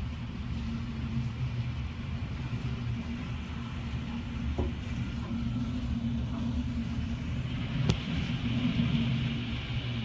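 Hurricane wind heard from inside a house as a steady low rumble, with a single sharp click about eight seconds in.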